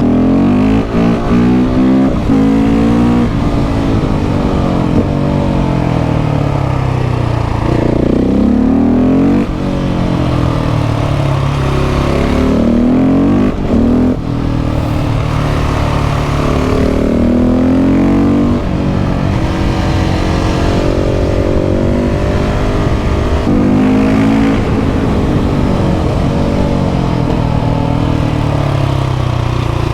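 KTM 690 SMC R's single-cylinder engine through a Leo Vince exhaust, revving up through the gears. The pitch rises again and again, then drops at each gear change or when the throttle is closed.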